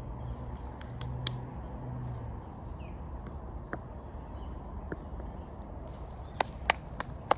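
Woodland background with a low steady hum at first and a few faint bird chirps. Near the end come three sharp knocks, stones clacking together as rocks are arranged around a fire pit.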